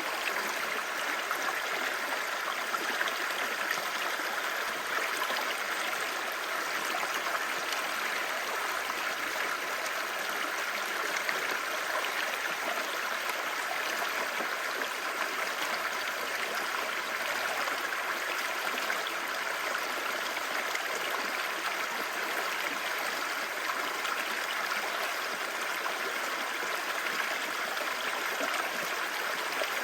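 Clear stream babbling, a steady, even rush of water.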